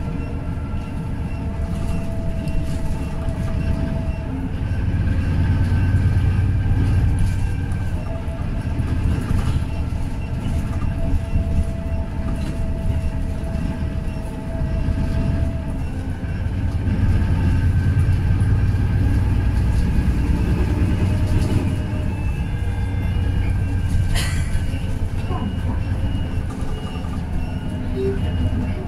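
Daewoo low-floor city bus running, its engine rumbling with a steady whine over it. The engine swells louder twice as the bus pulls harder, about five seconds in and again past the middle. A sharp click comes near the end.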